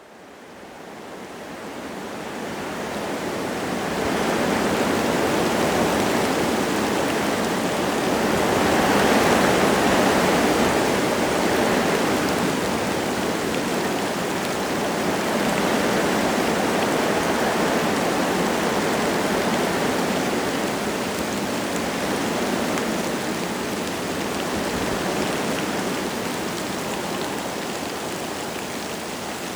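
Wind gusting through forest trees with light rain falling, a steady rushing noise. It fades in over the first few seconds and swells in a stronger gust about a third of the way through.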